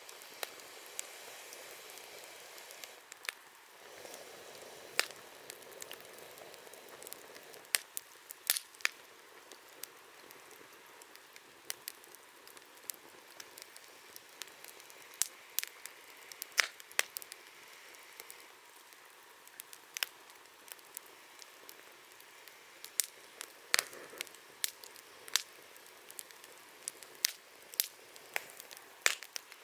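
Wood campfire burning: a steady low hiss of flames broken by frequent, irregular sharp crackles and pops.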